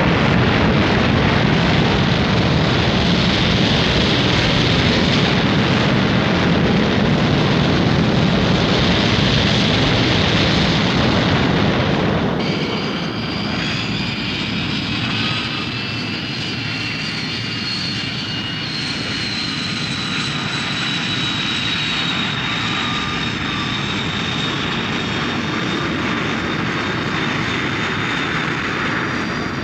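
Thunderbird 1's rocket-jet launch sound effect: a loud, dense roar for about twelve seconds, then an abrupt cut to a quieter jet sound in flight, with a steady high whine that slowly drifts down in pitch.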